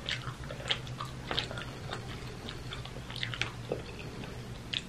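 Close-miked chewing of food, with irregular small wet mouth clicks and smacks, and the soft tearing of a sauced chicken wing pulled apart by hand.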